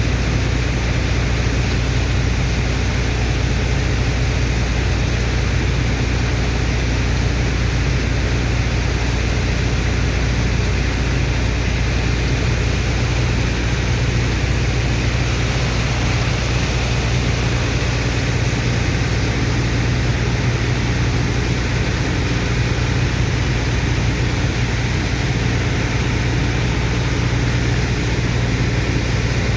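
The heavy engine of a sand dredger and its water pump, running steadily under load: a constant low drone with a steady rushing hiss over it.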